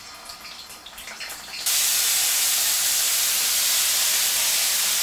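Marinated chicken wings sizzling in hot peanut oil in a wok, a loud, steady hiss that starts abruptly a little under two seconds in. Before it, only a few faint clicks.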